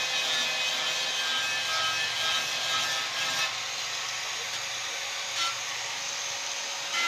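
Continuous abrasive rubbing, as of hand sanding a metal surface, slightly quieter and duller from about halfway.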